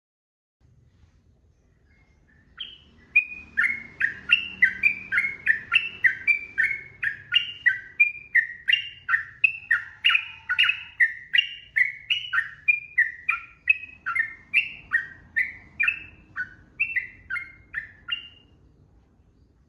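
Yellow-vented bulbul (trucukan) singing a long, fast run of short, sweeping whistled notes, about two to three a second, starting a few seconds in and stopping near the end.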